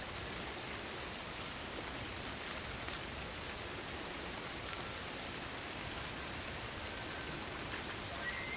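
Steady rain falling in a forest, with a constant high-pitched chorus of crickets above it. Just before the end a bird starts chirping.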